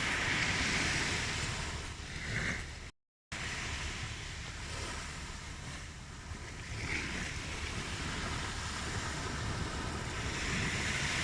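Ocean surf: waves washing in and drawing back as a steady hiss that swells and eases every few seconds. There is a brief cut to silence about three seconds in.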